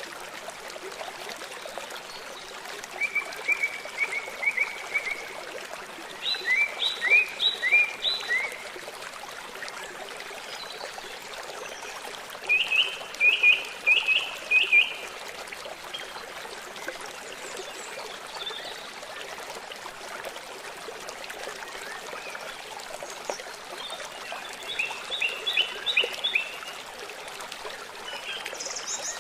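River water flowing steadily, with a bird calling in four short bouts of quick, high, repeated notes.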